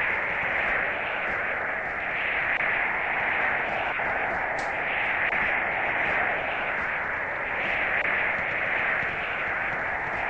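Steady rushing water noise with no distinct events, swelling and easing gently every second or two.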